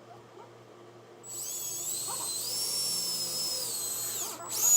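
Electric drill spinning a headless nail used as a bit to pre-drill pilot holes in pine. A high whine starts about a second in and runs for about three seconds, shifting slightly in pitch, then stops; a shorter second burst follows near the end.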